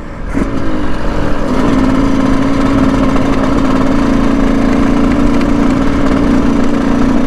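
Dirt bike engine running at a steady speed, its note settling in about a second and a half in and holding level throughout.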